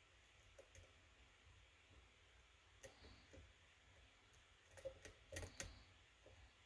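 Faint, irregular clicks of a lock pick and tension wrench working the pins of a kick cylinder lock, with a quick cluster of louder clicks about five seconds in.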